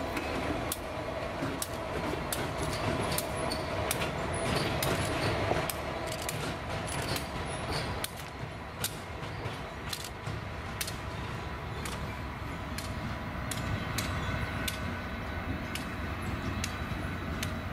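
A passenger train hauled by a diesel locomotive rolling slowly past and drawing away, with a steady rumble of engine and wheels and many sharp clicks as the wheels cross rail joints and switches.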